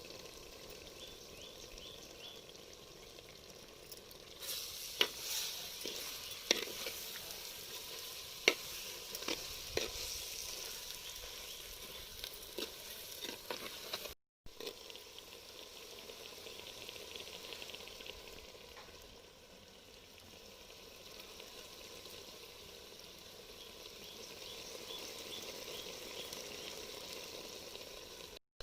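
Chicken pieces and spices sizzling in a curry pan while being stirred, with sharp knocks of the spoon against the pan for several seconds about a third of the way in, then a steadier sizzle.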